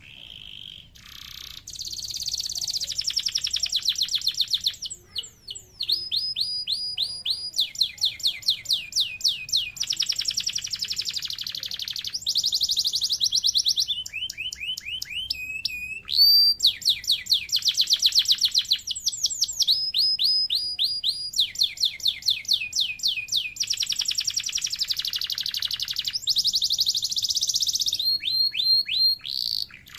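Domestic canary singing a long, nearly unbroken song of fast trills. Each run of quickly repeated notes lasts a second or two before the bird switches to another, and some runs are made of notes that sweep downward in pitch.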